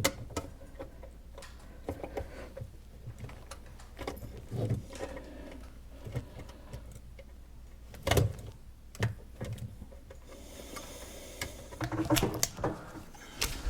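Scattered clicks and knocks of plumbing fittings being handled and test-fitted onto a drain pipe, with a louder knock about 8 s in and a brief hiss near the end.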